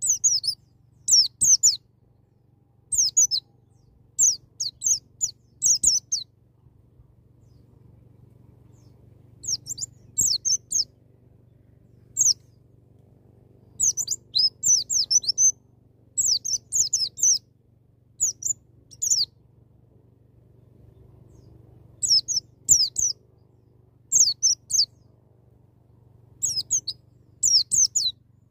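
White-eye (pleci) singing in the fast wild-type 'ngalas' style: short bursts of high, rapid chirping notes, repeated every second or two with brief pauses, over a faint steady low hum.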